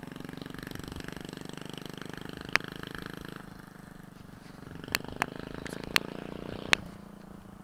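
Minibike engine running steadily, dropping off a little midway, picking up again, then easing down near the end. Several sharp clicks cut in over it.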